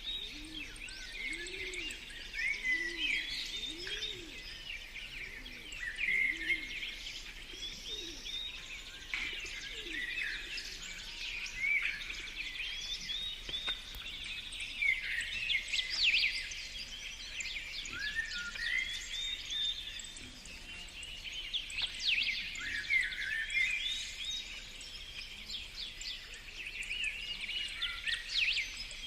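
Several birds singing and chirping at once, a dense overlapping chorus of short high chirps and quick sweeping notes. In the first several seconds a lower, repeated rising-and-falling note sits beneath the chirping.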